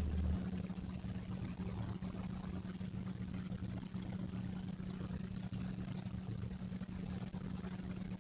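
A steady low hum under an even hiss, without change.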